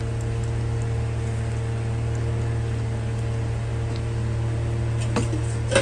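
Ground masala paste frying in oil in a nonstick pan while being stirred with a spatula: a steady sizzling hiss over a constant low hum. Two short sharp clicks of the spatula near the end, the second the loudest.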